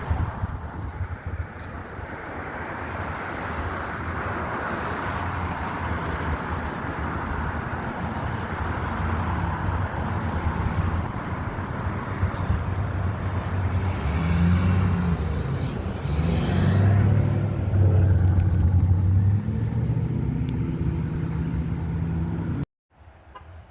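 Corvette V8 engine and road noise while driving, with the engine note growing louder in several surges past the middle as the car accelerates. It cuts off suddenly near the end.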